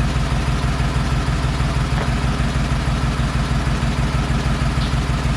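Engine idling steadily with an even, regular pulse.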